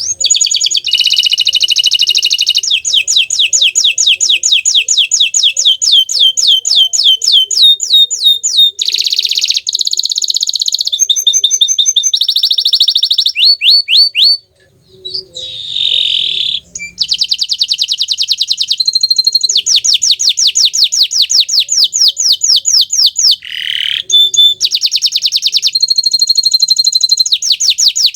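Green domestic canary singing loudly and almost without pause: long runs of fast repeated trill notes, switching to a new phrase every second or two, with two brief breaks about halfway through.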